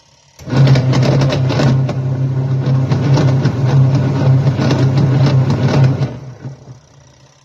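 Twin-tub washing machine's wash motor and gearbox running with a steady hum and a loud rattling, grinding clatter, then winding down and stopping about six seconds in. The noise is the sign of a faulty gearbox.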